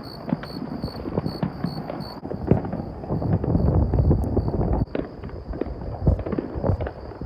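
Fireworks going off: a steady run of sharp pops and crackles, with deeper booms about halfway through and again near the end.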